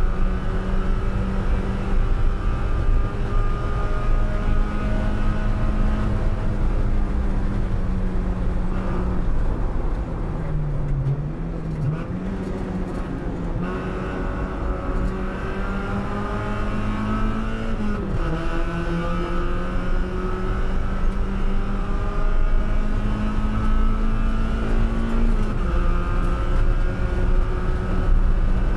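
Mazda Miata NB Spec Miata's 1.8-litre four-cylinder engine heard from inside the cockpit under racing load. The pitch sags and wavers as the car brakes and downshifts for a corner about ten seconds in. It then climbs back up, dropping sharply at upshifts about eighteen and twenty-five seconds in.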